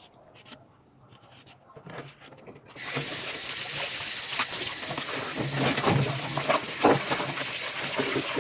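A few light clicks and knocks, then about three seconds in a strong stream of running water starts and keeps running steadily, an even hiss.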